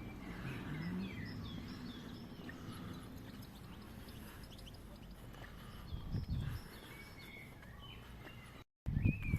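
Outdoor ambience with many short bird chirps over a steady low rumble. The sound cuts out briefly near the end and comes back with louder low noise.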